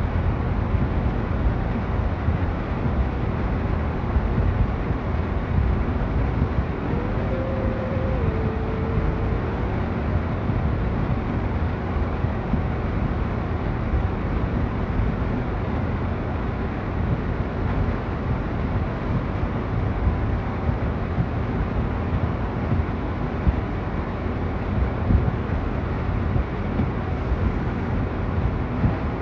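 Steady, fairly loud storm wind buffeting the microphone, a deep rumble that rises and falls in strength. A brief two-note tone, the second note lower, sounds faintly about seven seconds in.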